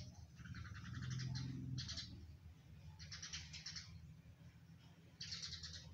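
Bird chirping in four short bursts of rapid, rattling chirps, over a faint steady low hum.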